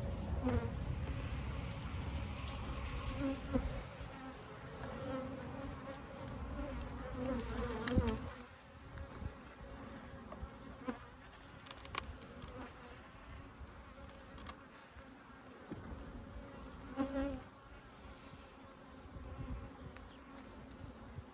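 Honeybees buzzing steadily around an open hive, louder in the first several seconds, with a few short sharp knocks.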